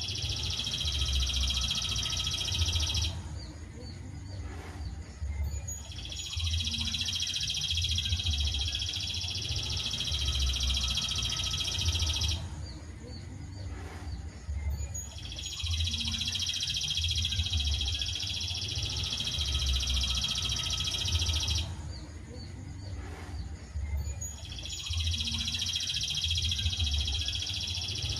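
Songbird masteran (training) recording: a dense, high, continuous trill in stretches of about six seconds, broken by short pauses and repeating in a regular loop about every nine seconds, over a low uneven throb.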